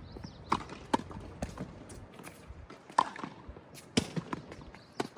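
Tennis ball being struck by rackets and bouncing on the court: five sharp pocks, about a second in, then at about three, four and five seconds. Wind rumbles on the microphone in the first two seconds.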